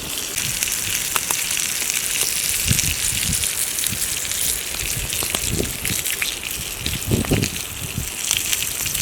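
Heavy rain falling in woodland, a steady dense hiss with a patter of drops, broken by a few scattered low thuds.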